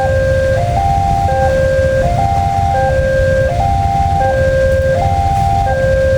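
Electronic level-crossing warning alarm repeating a short pattern of stepped tones about every second and a half, over a steady low rumble.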